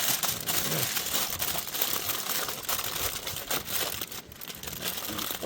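Wrapping crinkling and crumpling in rapid small crackles as a seasoned fish is wrapped up to roast on the fire.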